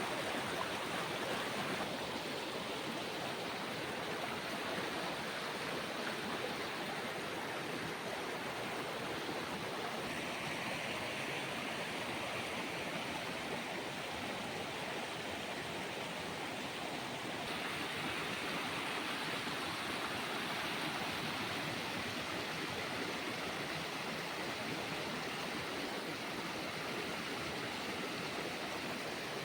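Steady rush of a flowing stream, the water running and splashing continuously, with a few slight shifts in tone along the way.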